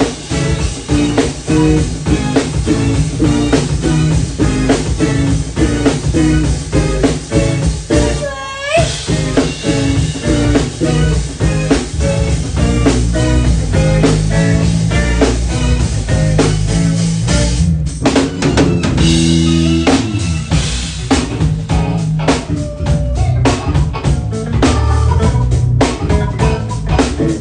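A live band playing, with a drum kit keeping a steady beat under bass and melody instruments. About eight seconds in there is a brief break with a sliding note.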